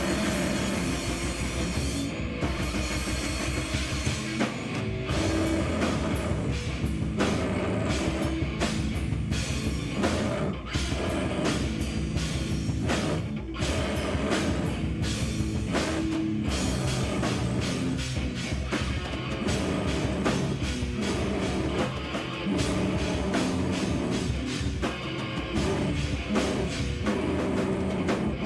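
Live band playing loud, heavy rock, with fast, regular drum-kit hits and guitar.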